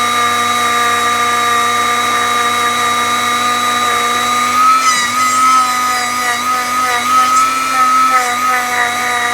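Dremel rotary tool with a grinding stone running at a steady high whine. From about five seconds in the pitch wavers and dips as the stone bears on the rusty steel of a G-clamp.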